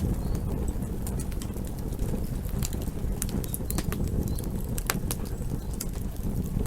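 Campfire burning: a steady low rumble of the flames with frequent sharp crackles and pops of the wood, one louder pop about five seconds in.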